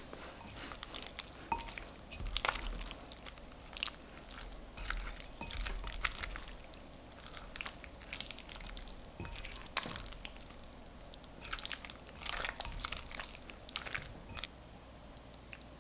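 Irregular small clicks, clinks and scrapes of kitchen utensils and dishes being handled.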